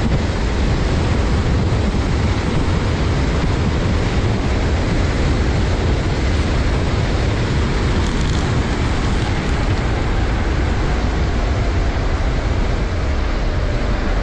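Steady rushing wind noise buffeting the microphone, loudest in the low range, with a faint high whine drifting slightly in pitch near the end.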